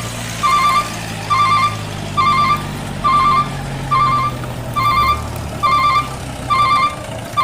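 Truck reversing alarm beeping about once a second, over a steady low engine hum that fades out near the end.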